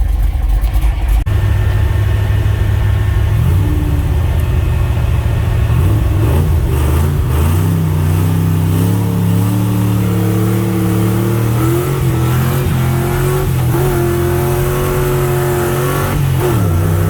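The black truck's engine revving as it accelerates through the gears, its pitch climbing with each shift from about six seconds in, held high, then falling away near the end. The clutch is working again after a new slave cylinder.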